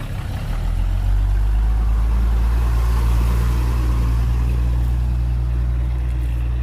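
The heavy diesel engine of an earthmoving machine, running loud and steady under load. It gets louder about a second in.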